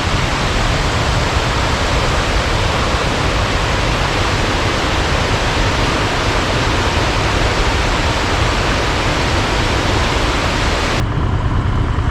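Waterfall: falling water makes a steady, loud rush. About eleven seconds in it cuts off abruptly, leaving a low engine rumble.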